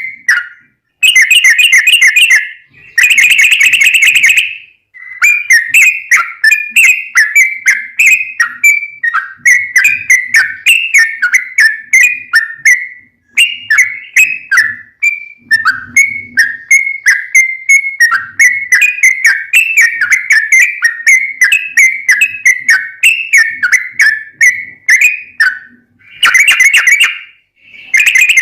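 Yellow-vented bulbul (trucukan) in full song: a long, fast, unbroken run of short, high chirping notes, with denser clustered bursts a second or two in and again near the end.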